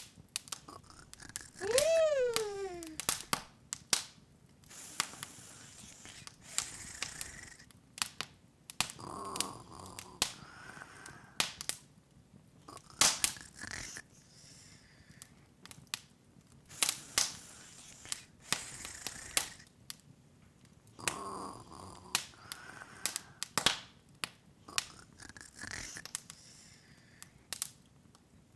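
Open fire crackling, with sharp pops at irregular intervals. About two seconds in, a short squeak glides up and then down in pitch.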